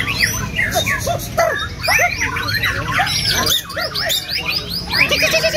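Several white-rumped shamas (murai batu) singing at once: a dense, overlapping tangle of fast whistles, chirps and rattling phrases, over a steady low background rumble.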